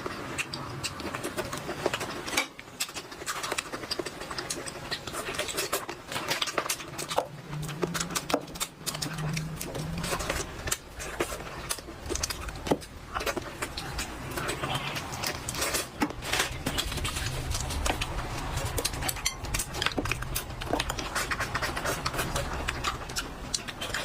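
A person eating close to the microphone: chewing and smacking, with many short clicks and ticks throughout.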